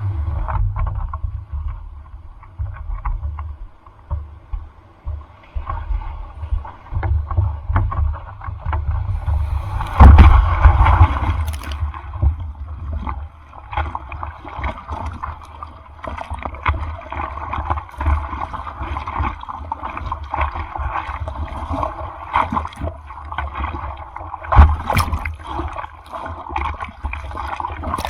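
Sea water sloshing and splashing close to the microphone in rough typhoon surf, with a heavy wind rumble throughout. Louder surges of water come about ten seconds in and again later.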